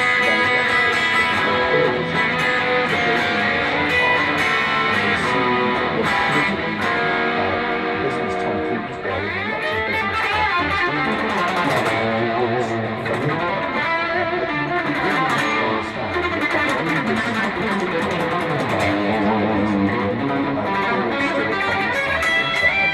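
Solo guitar played freely, improvised riffs and single-note lines with no backing, with bending, sliding notes around the middle.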